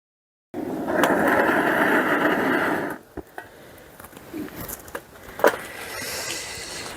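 Split firewood being handled at a wood-fired firebox: a loud scraping rush for about two and a half seconds, then a few light knocks of wood on wood.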